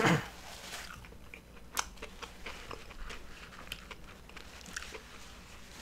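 A person chewing food close to the microphone: scattered soft mouth clicks and smacks, with a louder bite right at the start.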